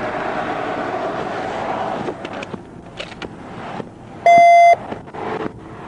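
A steady rushing noise with a few light clicks, then about four seconds in a loud electronic beep of one steady pitch, lasting about half a second.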